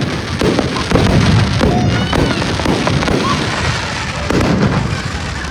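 Fireworks display going off: many bangs and booms in close succession.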